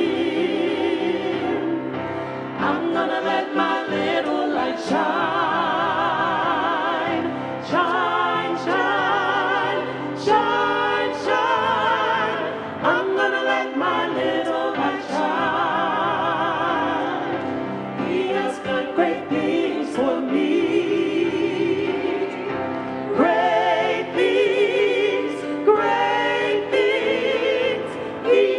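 Church choir singing sustained notes with vibrato over a steady low accompaniment.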